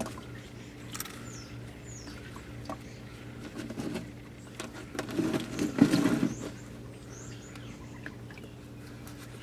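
Scattered clicks and knocks of hands and parts being handled, loudest in a cluster about five to six seconds in, over a steady low hum, with small birds chirping faintly a few times.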